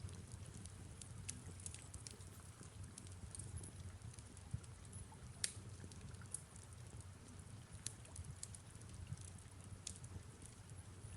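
Fireplace crackling faintly: scattered small sharp pops with a louder snap about five seconds in, over a low steady rumble and soft rain.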